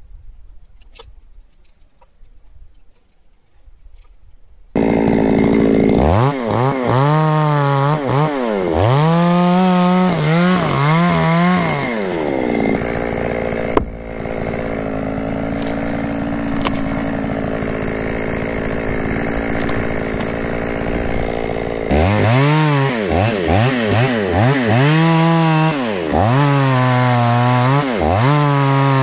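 A chainsaw starts up suddenly about five seconds in and is revved in repeated bursts. It then holds a steady speed for about ten seconds before being revved in bursts again.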